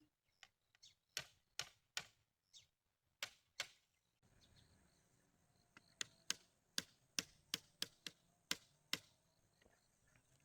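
Faint, sharp knocks of a hand tool striking bamboo, about two to three a second, in two runs with a short pause between them.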